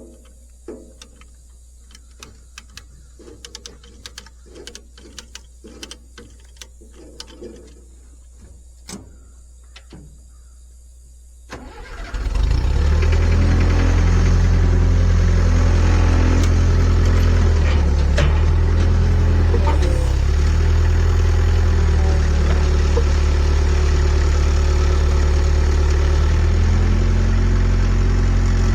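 Scattered metal clinks and knocks, then about twelve seconds in an engine is started and settles into a loud, steady idle.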